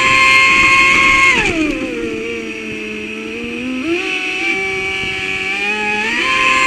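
Traxxas Spartan RC boat's brushless motor whining at high throttle. The pitch falls as the throttle eases off about a second and a half in, stays low for a couple of seconds, then climbs back up in two steps near the end.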